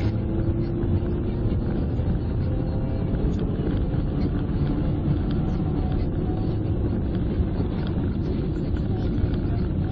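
Steady engine and road noise of a car driving, heard from inside the car, with a faint engine tone under a continuous low rumble.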